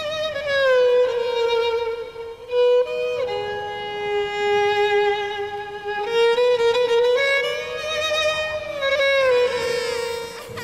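Film score: a solo violin playing a slow melody of long held notes with vibrato, sliding between pitches.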